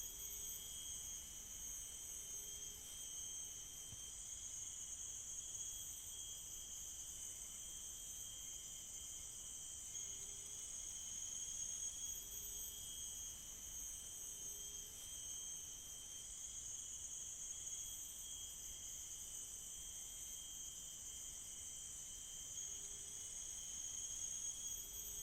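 Tropical forest insect chorus: several layers of steady, high-pitched insect drone that swell and ease slightly, with faint short low notes now and then.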